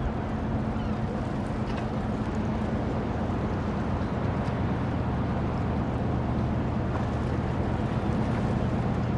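Dockside ambience: a steady low engine hum with a constant noisy wash, and a few faint clicks.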